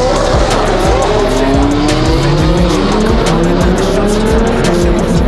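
A car engine accelerating hard, its pitch rising steadily over several seconds, over background music with a steady beat.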